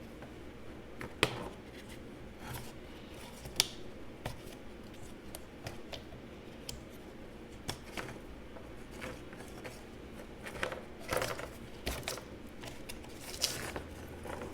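Scattered light clicks and taps of small plastic and metal parts of a portable bandsaw being handled and slid apart during disassembly, with a few sharper knocks.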